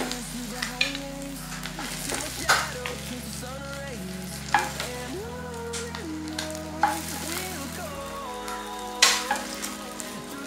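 Halved boiled eggs shallow-frying in oil in a kadai, sizzling steadily. A metal spatula scrapes and knocks against the pan four times as the eggs are stirred and lifted out.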